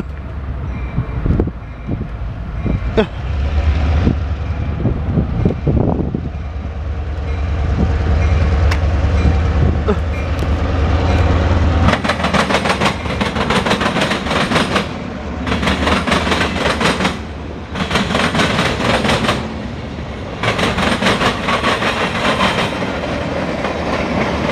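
CSX local freight train passing close by. For about the first twelve seconds there is a deep rumble, the diesel locomotive, with sharp clicks of wheels over rail joints. Then the rumble drops and freight cars roll past in stretches of rapid clickety-clack and rattling.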